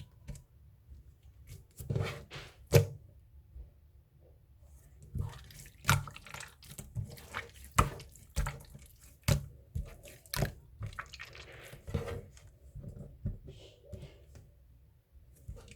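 Slime being squished and poked by hand, making irregular wet clicks and pops, several a second at times, with soft sticky squelching between.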